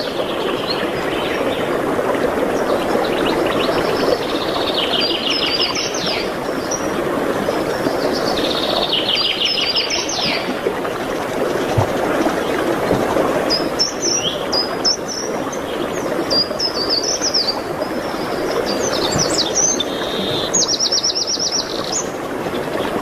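Songbirds singing: short high phrases of rapid trilled notes and chirps every few seconds, coming more often in the second half, over a steady rushing noise.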